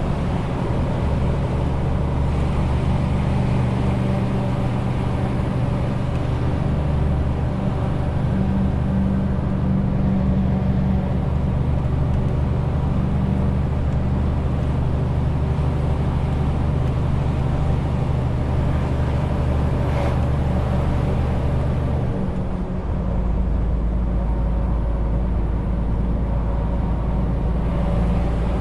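Renault T520 truck's diesel engine running steadily, hauling a 40-tonne load, with a steady low drone that shifts lower in pitch about three-quarters of the way through.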